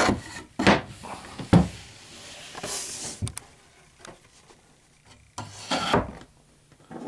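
Wooden debris tray of a top bar beehive being swung back up and worked into place: wood rubbing and scraping against wood, with three sharp knocks in the first two seconds and longer scrapes about three and six seconds in.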